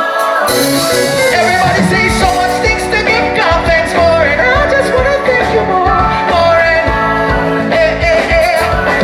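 Live gospel music: a lead singer's voice carries a wavering melody over a band with a steady drum beat.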